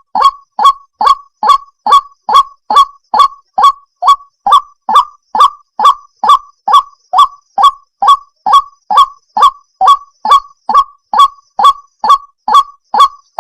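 White-breasted waterhen calling: a long, steady run of short, identical notes, a little over two a second, each dropping slightly in pitch.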